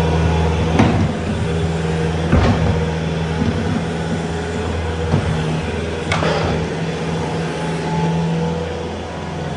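A vehicle engine running steadily at a low, even pitch, with three or four short knocks over it.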